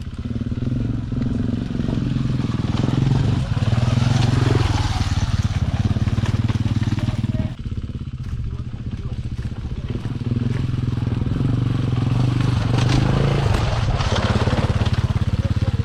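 Dirt bike engine running under load along a rough trail, dropping off throttle briefly about seven and a half seconds in and then pulling again.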